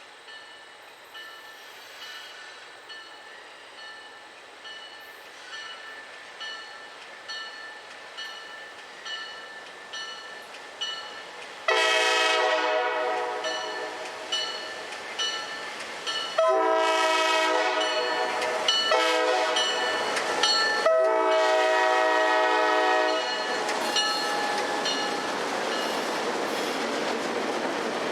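Diesel freight locomotive's multi-chime air horn blowing the grade-crossing signal: long, long, short, long, over evenly spaced dings from a crossing bell. Then the locomotive and train rumbling loudly past.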